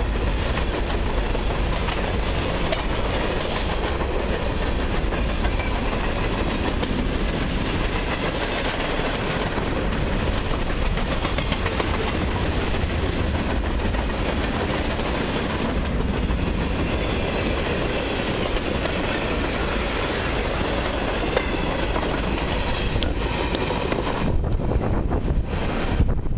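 Long freight train of mixed cars (hoppers, tank cars, boxcars) rolling past close by: a steady rumble of steel wheels on rail. About 24 s in, the last car passes and the higher part of the noise falls away as the train recedes.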